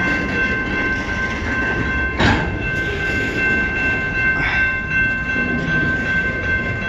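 Freight train rolling slowly past as it brakes to a stop: steady low rumble of the cars with a continuous high-pitched squeal of brakes on the wheels, and a sharp clank about two seconds in.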